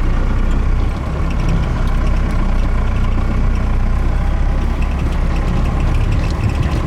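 Cummins 4BT four-cylinder diesel engine in a Ford F-150 running steadily at low revs, with a constant low rumble.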